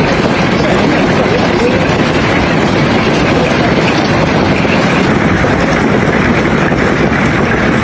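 Heavy rain mixed with hail falling steadily, a loud, dense, unbroken noise.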